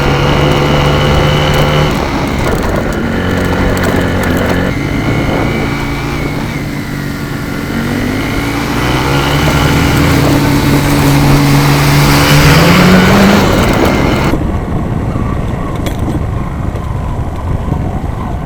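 Vehicle engine running with road noise as it is driven along. The engine note rises about twelve seconds in, then the sound changes abruptly a second or two later.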